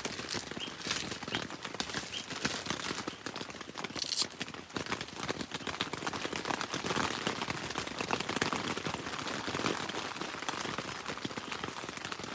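Heavy rain falling on a tent, a dense steady spatter of drops on the fabric.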